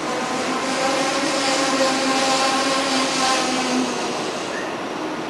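ICE high-speed train rolling slowly past along the platform: a steady electric whine of several pitched tones over a hiss of wheels on rail. It is loudest in the middle, and the whine dies away about four seconds in.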